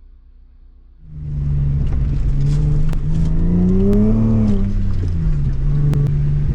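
Lexus IS300 Sportcross's inline-six engine running, coming in suddenly about a second in, then revving up and easing back down around the middle.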